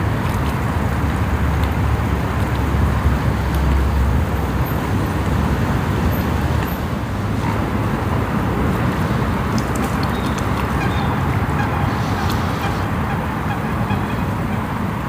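Lakeside ambience: a steady rumbling noise, heaviest in the first few seconds, with waterfowl calling faintly.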